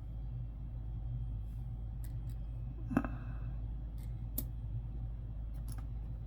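A few light clicks of nickels being handled, the loudest about three seconds in, over a steady low hum.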